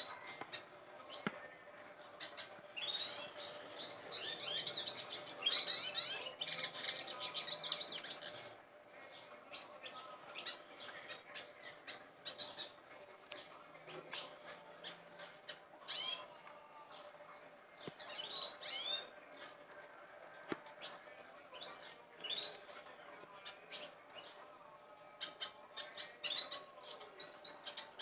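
Several caged songbirds, a mix of finches and canaries, chirping and singing. A dense burst of fast, high warbling song runs from about three seconds in to about eight seconds in, followed by scattered chirps and short song phrases.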